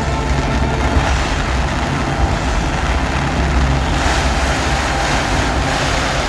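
Fireworks going off in a dense, continuous barrage, a heavy rumble with crackle that thickens about four seconds in, over the show's loud music.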